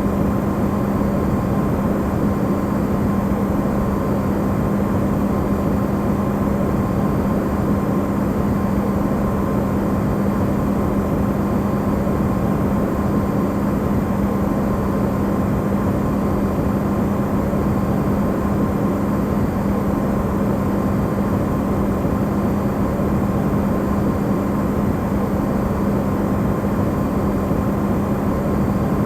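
Steady, amplified running hum of an Electrolux refrigerator, a constant low drone with a clear tone near 200 Hz and a fainter one higher up, unchanging throughout.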